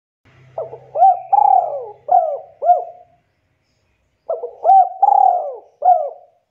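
Spotted dove cooing: two phrases of several rising-and-falling coos each, with a pause of about a second between them.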